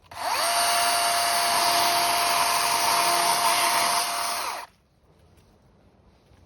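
Cordless electric chainsaw's motor triggered on, spinning up at once to a steady high whine, held for about four and a half seconds, then released and winding down quickly, with no engine idle before or after.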